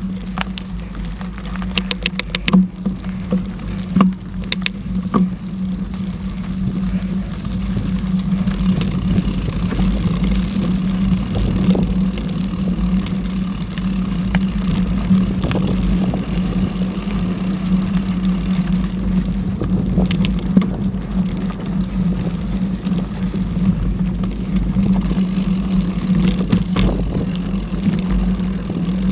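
Mountain bike being ridden along a trail: a steady rumble of tyres and wind on the microphone under a constant hum, with scattered sharp knocks and rattles from the bike, a quick cluster of them a couple of seconds in.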